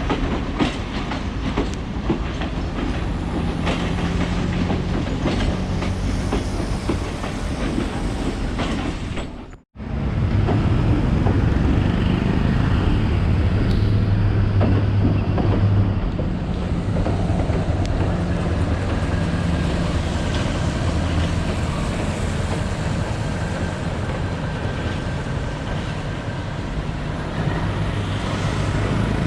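Diesel train rolling through, its wheels clicking rapidly over rail joints. After a sudden break, a diesel locomotive's engine runs with a steady low hum over the rumble of the train.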